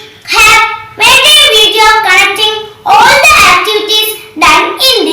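A child singing, in short phrases with brief breaths between them.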